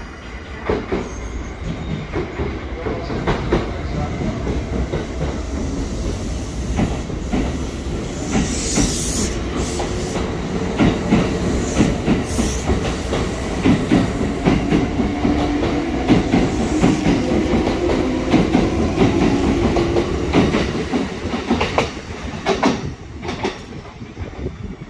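Kintetsu electric train running along the platform, wheels clicking over the rail joints with a low rumble and a brief high squeal of the wheels twice. The sound fades as the train draws away near the end.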